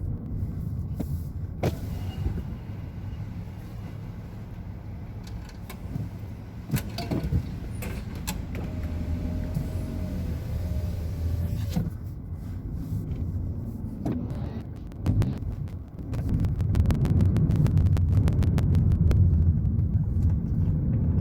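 A car driving, heard from inside the cabin: steady engine and road rumble with scattered clicks and rattles, getting louder about three-quarters of the way through as the car speeds up.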